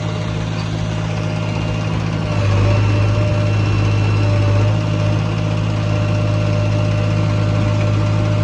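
Heavy diesel engine running steadily, its note growing louder and heavier about two and a half seconds in, as if under load, then settling back just before five seconds.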